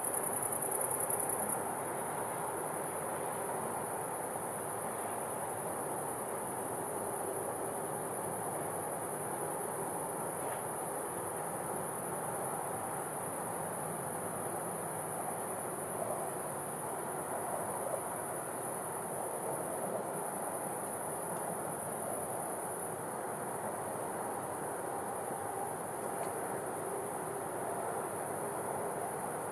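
Crickets chirring in a continuous high-pitched trill, louder for about the first second and a half and then steady, over a faint low background hush.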